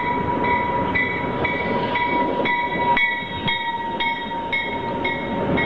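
Passenger train pulling in alongside the platform, a steady rumble of the cars rolling by, with a bell dinging about twice a second and a steady high tone over it.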